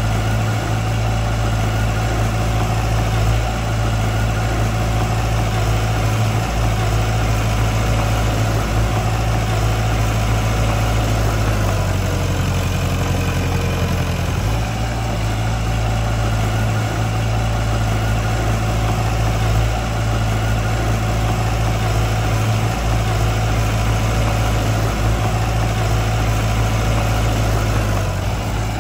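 Heavy-equipment diesel engine running steadily at low revs, its low hum shifting for a couple of seconds about twelve seconds in before settling back.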